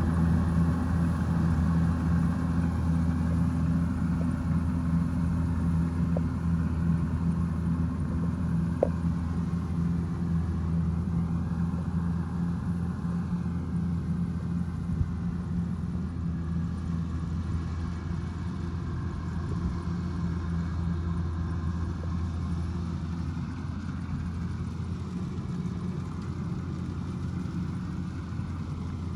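Kubota DC105X combine harvester's diesel engine and threshing machinery running at a steady, even pitch, growing slightly quieter toward the end.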